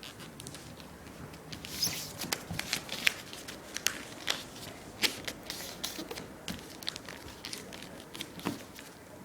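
A sheet of paper being folded and creased by hand: irregular crinkles and crackles of the paper, busier from about two seconds in.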